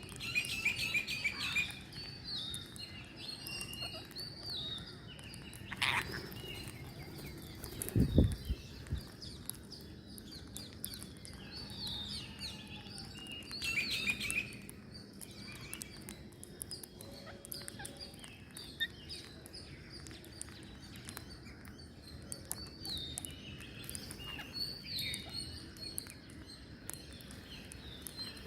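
Green parrots giving many short, high chirping calls, with one low thud about eight seconds in.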